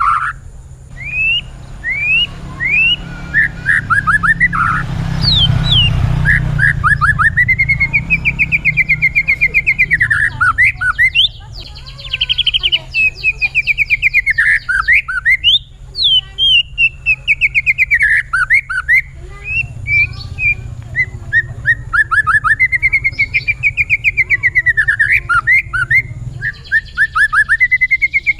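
White-rumped shama (murai batu) singing continuously, in long fast runs of rapidly repeated notes that rise and fall in pitch.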